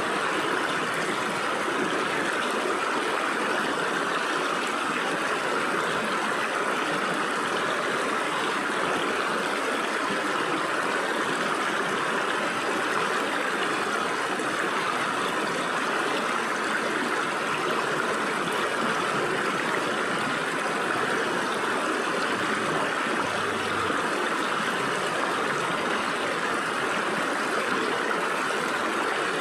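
A stream of water flowing and splashing through gaps between rocks, a steady rushing burble.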